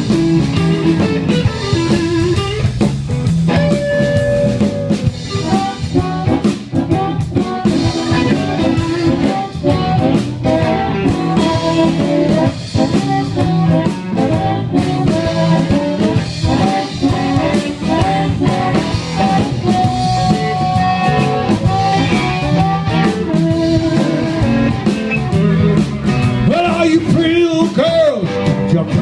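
Live blues band playing an instrumental break: lead electric guitar playing sustained and bending notes over bass guitar and drum kit.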